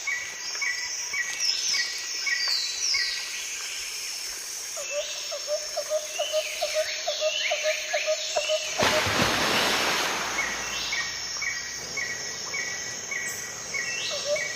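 Repeated short bird-like chirps and gliding calls over a steady high hiss, joined about nine seconds in by a louder, even hiss.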